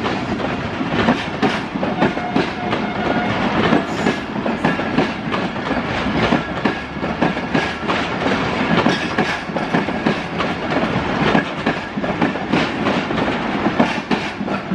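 Passenger train coaches rolling past close by, their wheels clattering on the track in a steady stream of sharp clicks over a continuous rumble.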